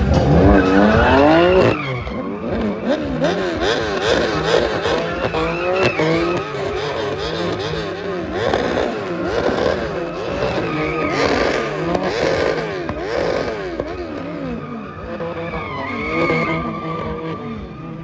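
Performance car engine revving hard, climbing steeply at first and then swinging up and down in rapid rev cycles, with tyres squealing now and then: a car being drifted or spun in donuts.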